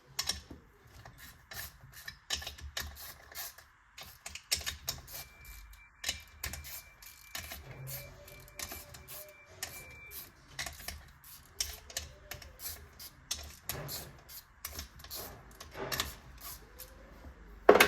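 Irregular light clicks and knocks of small metal engine parts and tools being handled on a workbench, with one sharper knock near the end.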